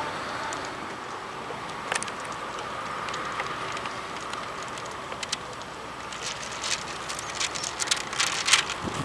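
A train's whistle cuts off at the very start. Then comes steady train running noise with scattered sharp clicks that come more often near the end.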